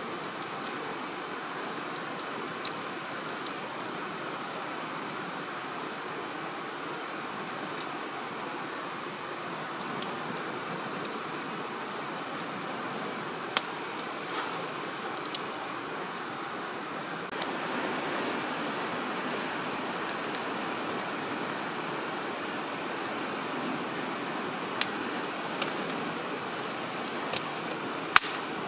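Firewood burning, with scattered sharp crackles and pops that come most often near the end, over a steady rushing hiss that grows a little louder partway through.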